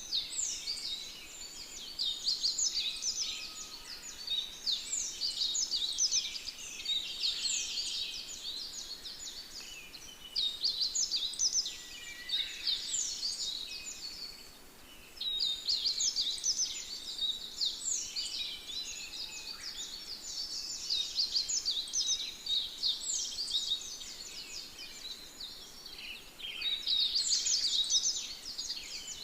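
Chorus of many small birds chirping and singing at once, dense rapid high-pitched calls overlapping in bouts with brief lulls between them.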